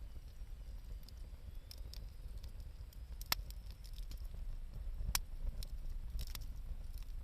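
Wood campfire burning with scattered crackles and three sharper pops, about three, five and six seconds in, over a low steady rumble.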